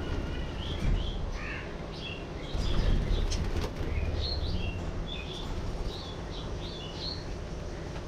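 A flock of budgerigars chirping and warbling in many short, overlapping chirps. There are louder bursts of wing flapping about a second in and again around three seconds in.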